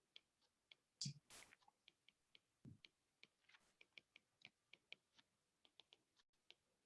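Near silence with faint, sharp clicks at uneven spacing, about two or three a second, and a brief soft noise about a second in.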